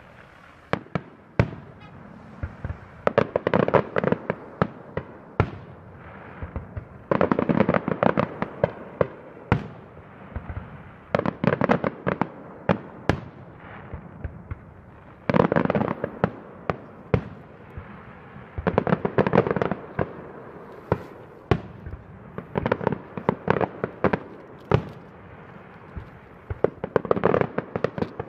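Daytime fireworks: aerial bursts going off as sharp bangs, in dense rapid volleys about every four seconds with single reports in between.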